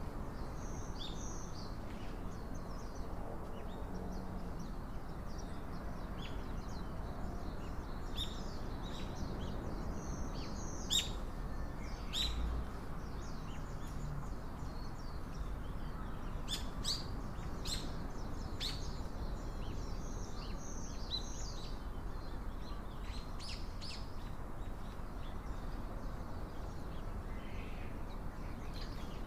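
Small birds chirping, with short high calls scattered irregularly and clustering through the middle, over a steady low background rumble.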